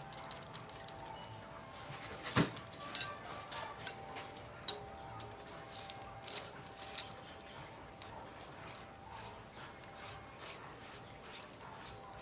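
Metal clicks and clinks of hand tools working on the roller rocker arms of a Ford 302 small-block V8 while the rocker arms are set up cylinder by cylinder. The two loudest clacks come between two and three seconds in, followed by many lighter ticks.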